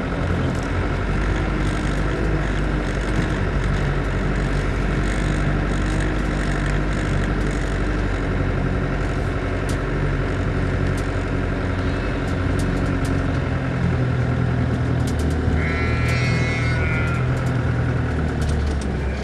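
Land Rover engine running steadily as the 4x4 creeps along a grassy off-road lane, with scattered knocks and rattles over the bumps. About three quarters of the way through, a sheep bleats once, briefly.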